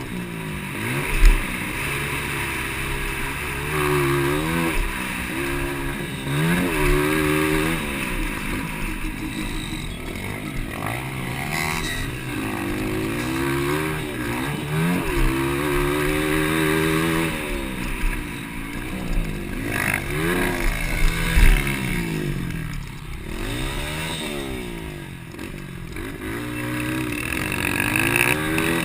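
Several motocross bike engines of the 200cc class racing, their pitch climbing and dropping again and again as the riders open and close the throttle through the track, with a few sharp knocks along the way.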